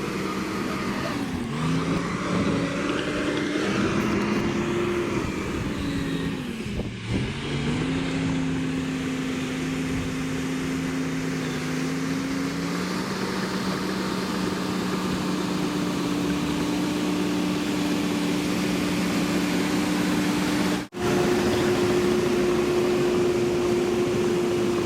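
Cat D6H bulldozer's diesel engine running steadily under working load. Its pitch sags and recovers twice in the first several seconds as the engine lugs down. About 21 seconds in the sound drops out for a split second, then comes back at a steady, slightly higher pitch.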